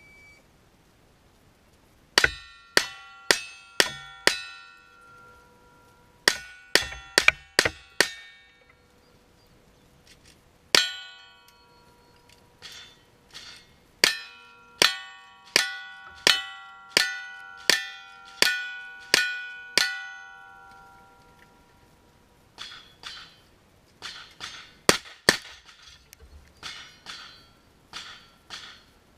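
Strings of gunshots in a cowboy action shooting stage: a quick group of five, another five, a longer string of about ten, then a quieter string near the end. Many shots are followed by steel targets ringing with clear, lingering tones.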